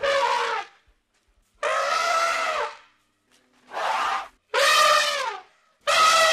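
African elephant trumpeting: a run of loud calls, each up to about a second long with short gaps between, several dropping in pitch at the end.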